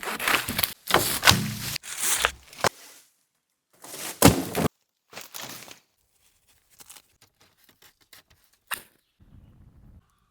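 Short snippets of wood-working sounds spliced together with sudden cuts: knocks and chopping thuds, the heaviest thud about four seconds in. After that come fainter scattered ticks and one sharp knock near the end.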